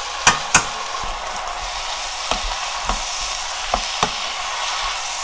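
Fish cakes, shishito peppers, onion and carrot sizzling steadily in an oiled frying pan as they are stir-fried. Two sharp taps of a metal spoon on the pan in the first second, then a few lighter knocks of the spatula against the pan as it stirs.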